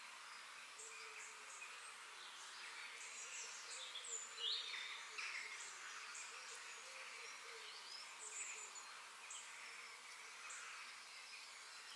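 Forest ambience with several small birds calling: short high chirps repeating throughout, and a louder downward-sliding call about four and a half seconds in, over a faint even background hiss.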